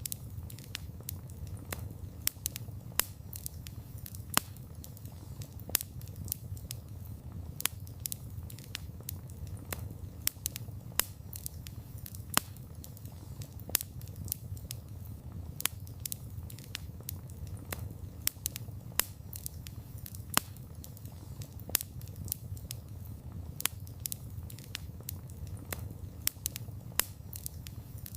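Wood campfire crackling, with sharp irregular pops several times a second over a low steady rumble.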